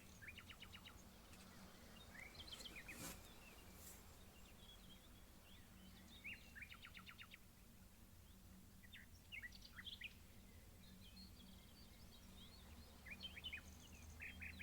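Faint small birds chirping, with a few quick trills about half a second in, again around six to seven seconds in, and a cluster of chirps near the end, over a steady low hum.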